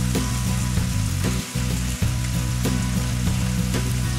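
Chicken breasts frying in oil in a hot pan over medium-high heat: a steady sizzle, with scattered light clicks as the pieces are turned over with tongs.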